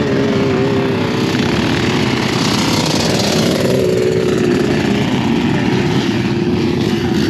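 Off-road vehicle engine running loudly at a steady high speed, its pitch holding and then dropping a little about halfway through.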